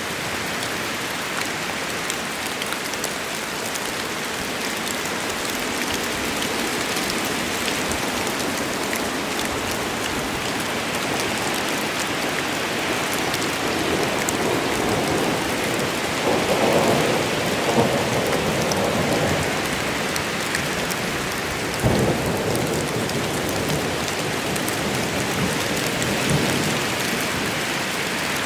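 Steady rain falling in a forest during a thunderstorm. Thunder swells and rumbles about halfway through, and a single sharp crack comes a few seconds later.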